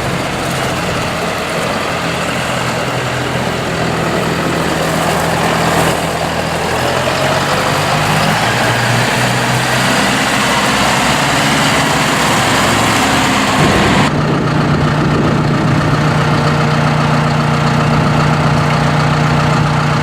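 John Deere 5100E tractor's four-cylinder turbo diesel engine running, its note shifting a little in the first part. About two-thirds of the way in it changes suddenly to a steadier, stronger note.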